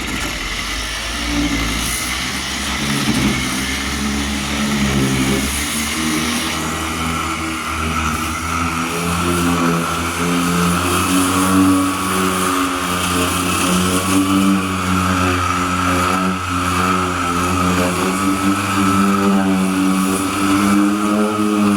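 Electric variable-speed sander running steadily on body filler, turned down by a speed controller: a steady motor hum with the rasp of sandpaper over it.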